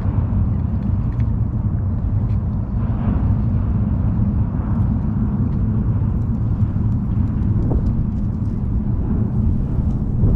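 Boat motor running steadily with a low, even rumble.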